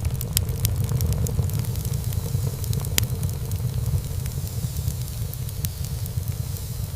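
Wood fire burning in a fireplace: a steady low rumble of flame with scattered crackles and pops of burning wood, one sharper pop about three seconds in.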